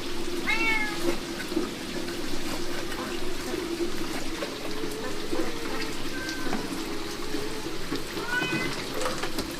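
A hungry domestic cat meowing, three short rising-and-falling meows: a clear one about half a second in, a faint one around the middle and another near the end. Steady rain hisses underneath.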